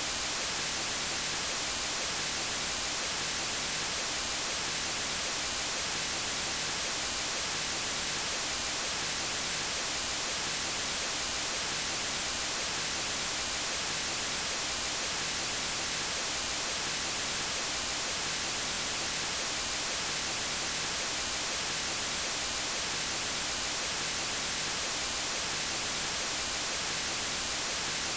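White noise: a steady, unchanging hiss across the whole range of pitch, brightest in the highs.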